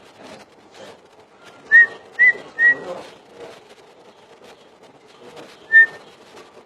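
Cucak ijo (green leafbird) giving loud, short whistled notes: three in quick succession about two seconds in, then a single note near the end.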